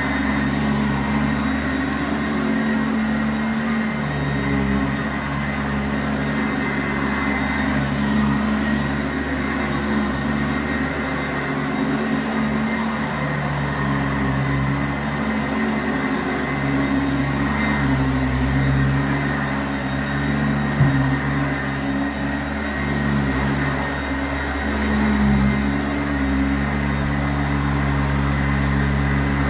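Sanitaire SC684G upright vacuum cleaner running steadily while being pushed over carpet, its motor hum wavering a little in level and pitch.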